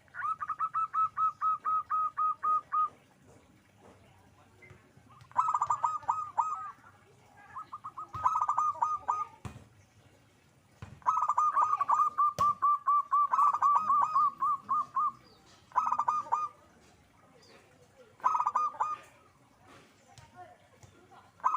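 Zebra dove (perkutut) cooing: bouts of quick, evenly spaced staccato coos, about five notes a second, repeated with short pauses between bouts, the longest running about four seconds in the middle.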